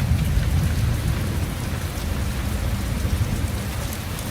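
Heavy rain pouring down and pattering close to the phone's microphone, over a continuous low rumble.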